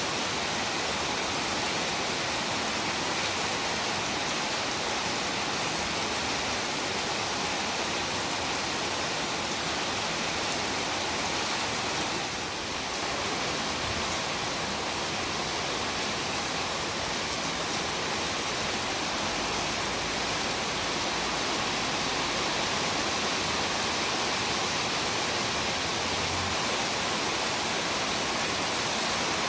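Heavy rain falling, a steady, dense hiss with no breaks.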